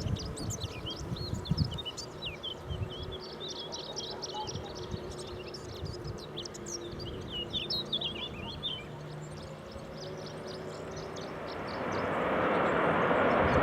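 Small birds chirping in quick runs over the steady hum of distant aircraft engines; near the end the roar of an aircraft's engines swells as it comes closer.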